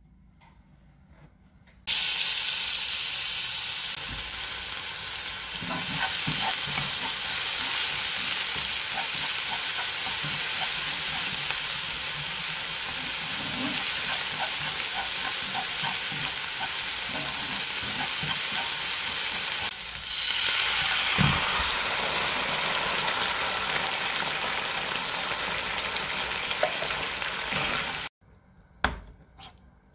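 Chopped onion sizzling loudly in hot oil in a nonstick frying pan, with small clicks and pops through the sizzle. It starts abruptly about two seconds in and cuts off suddenly shortly before the end, followed by a light knock.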